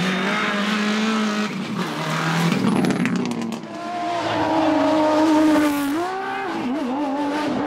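Rally car engine running at high revs, its pitch stepping and rising with gear changes, with tyres squealing as the car slides.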